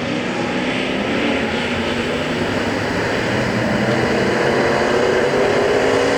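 A pack of Semi Late Model dirt-track race cars' engines running together in a steady drone on the pace laps. The engine pitch slowly climbs in the second half as the field picks up speed toward the green flag.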